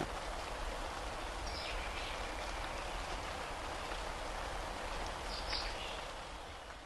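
Faint, steady hiss of background noise with no engine note, fading out near the end; two faint high chirps, at about a second and a half in and again near five and a half seconds.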